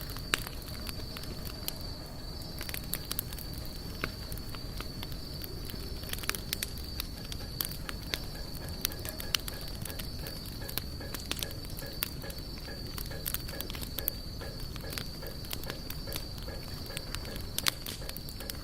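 Wood fire burning, crackling with frequent sharp irregular pops over a low steady rumble. A steady high-pitched insect drone runs underneath.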